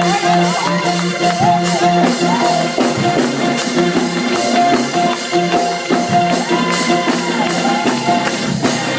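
Live church music: held keyboard chords under a steady drum and tambourine beat.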